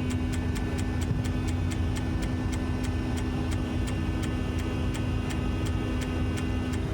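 Grove crane's engine and hydraulics running steadily as the winch cables up a load, a constant drone with a steady whine and an even ticking about four times a second.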